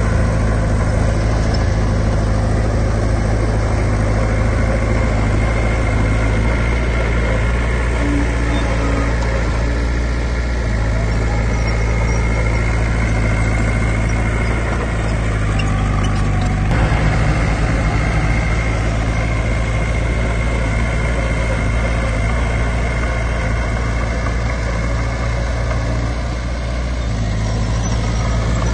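Heavy diesel engines of earthmoving machinery running steadily with a faint high whine, the engine note changing briefly a little past halfway.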